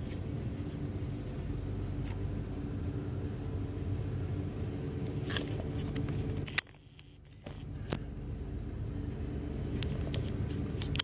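Freight train of refrigerator boxcars rolling past at close range: a steady low rumble with a few sharp clicks from the wheels and cars. The sound drops away sharply for about a second just past the middle, then the rumble returns.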